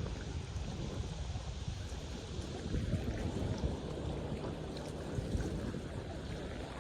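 Steady rushing, rumbling outdoor noise, heaviest in the low range, with no distinct events.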